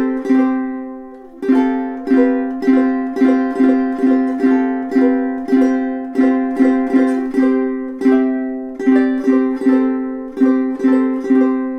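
Solid spruce-top, rosewood-bodied tenor ukulele being played: a run of plucked notes and chords, each ringing and fading. There is a brief lull about a second in before the playing resumes.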